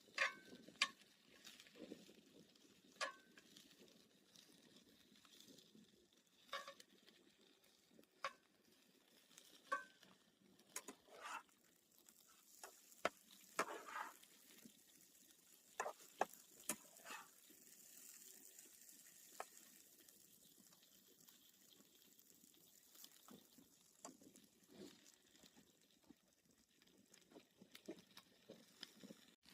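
Faint, scattered clicks and knocks at an uneven pace over a quiet background.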